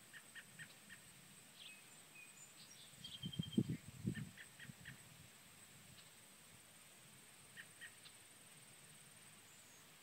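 Small birds calling sparsely: short runs of four or five quick high chirps, repeated a few times, with a whistled note and a brief trill, over a faint steady high-pitched buzz. A brief low rumble about three seconds in is the loudest sound.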